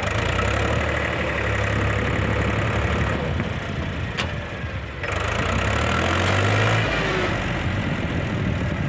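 Heavy diesel engine running steadily. Its note gets louder about five seconds in and drops back a couple of seconds later, and there is a single sharp click around the middle.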